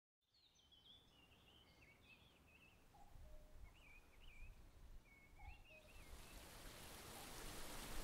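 Faint forest birdsong fading in from silence: several birds singing short warbling phrases, with a couple of lower calls. Rushing stream water swells in from about six seconds in.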